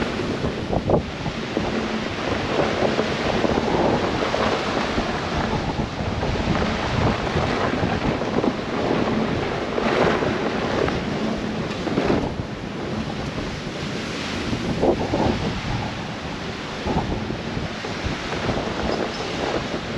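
Blizzard wind rushing steadily and buffeting the microphone, with stronger gusts about 10, 12 and 15 seconds in.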